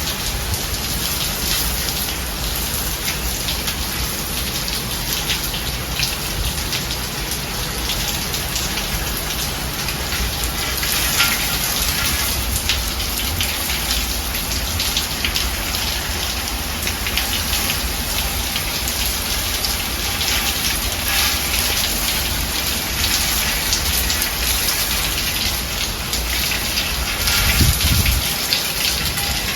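Steady rain falling in a thunderstorm, a dense even patter, with a short low rumble of thunder near the end.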